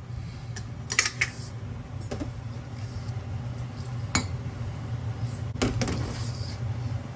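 Utensils clinking against dishes or a cooking pot: a few sharp clinks about a second in, another around four seconds in and a couple near six seconds, over a steady low hum.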